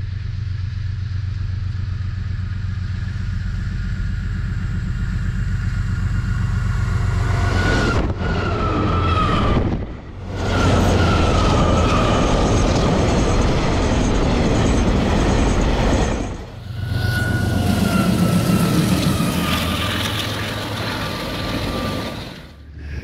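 Diesel-electric locomotive of a coal train running with a steady low rumble. About eight seconds in it becomes a louder rushing rail noise with a high whistling tone that falls slowly in pitch. The sound drops out briefly twice.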